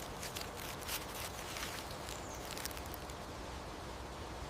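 European hedgehog moving through dry leaves: a faint, steady rustling with scattered soft clicks.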